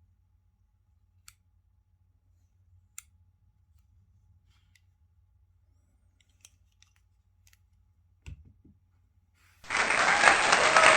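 A few sparse, light clicks and taps of small objects being handled, with a short knock about eight seconds in. Near the end a loud, continuous noise starts abruptly.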